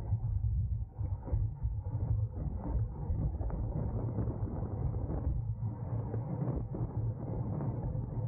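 Wind rushing over the microphone of a racer's camera on a road bicycle at race speed: a steady low rush broken by frequent small clicks and rattles from the bike.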